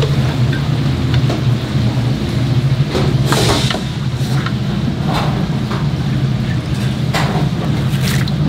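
A steady low mechanical hum, with a few short knocks and clatters over it and a brief hiss about three seconds in.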